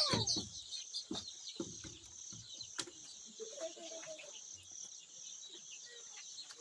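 A cricket chirping in a steady pulsing trill, about three pulses a second. Day-old chicks peep faintly under it, with a few soft knocks from handling.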